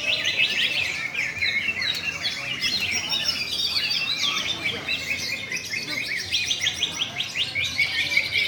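Caged contest songbirds singing all at once, a dense overlapping chorus of rapid chirps and trills.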